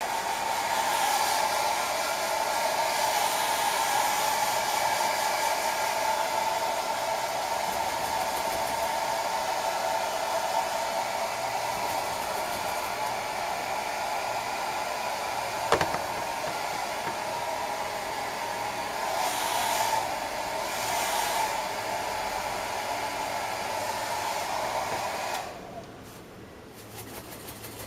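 Hair dryer blowing steadily, with a single sharp click about 16 seconds in; the dryer stops near the end.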